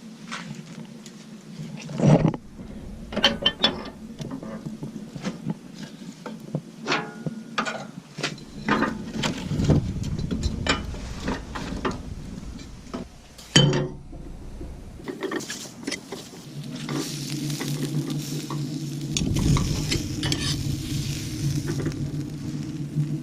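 Metal objects being handled: a run of clinks and knocks, with a loud knock about two seconds in and another near the middle. From about two-thirds of the way through, a steady hiss with a low hum takes over.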